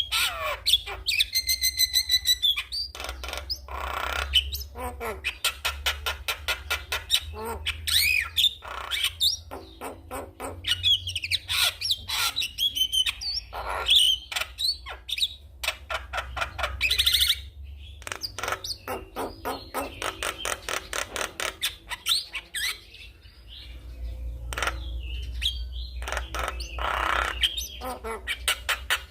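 Javan myna (jalak kebo) singing a busy, varied song: whistled rising and falling notes mixed with chatter and rapid ticking runs, hardly pausing.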